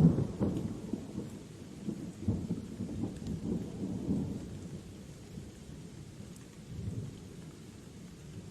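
Thunderstorm: steady rain with rolling thunder. A rumble dies away in the first second, another rolls through from about two to four seconds in, and a shorter one comes near the seventh second.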